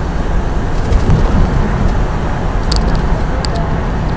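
Semi truck's diesel engine and road noise droning steadily inside the cab while cruising on the highway, with a few light clicks in the second half.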